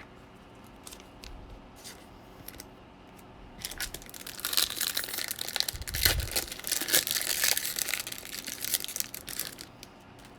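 A trading card pack's foil wrapper being torn open and crinkled by hand. The crinkling runs for about six seconds, starting a few seconds in, after a few faint clicks.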